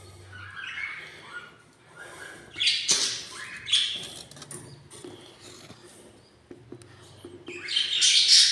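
Budgerigars squawking and chirping: a few short rising chirps near the start, harsh squawks about three seconds in, and a louder, longer raspy squawk near the end.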